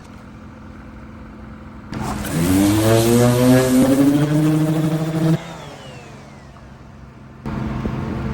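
An engine revving up, rising in pitch and then holding steady for about two seconds before cutting off abruptly.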